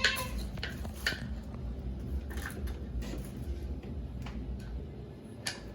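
Food packaging and containers being handled: a series of short rustles and light knocks over a steady low rumble.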